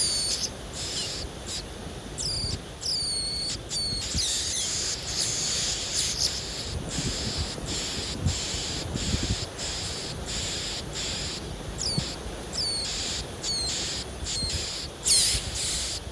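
Small birds chirping in short, high, downward-sweeping notes, with an insect chorus pulsing about twice a second through the middle.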